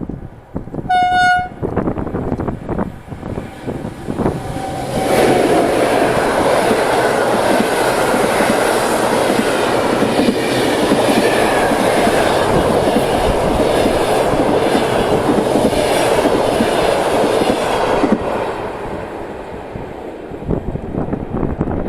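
Train horn blown once, briefly, then a PKP Intercity passenger train passes at speed, its wheels clattering over the rail joints. The sound builds, stays loud for about thirteen seconds, then fades as the train goes by.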